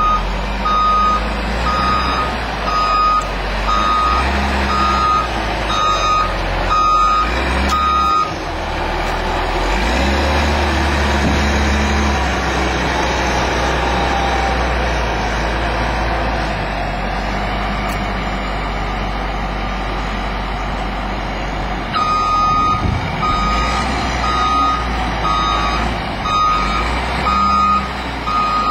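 Heavy vehicle's reversing alarm beeping about once a second over a steady low engine rumble. The beeping stops about 8 seconds in, the engine swells, and the beeping starts again about 22 seconds in.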